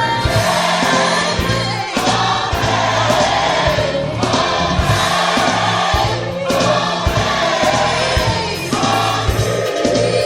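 Gospel choir singing over a band with a steady drum beat.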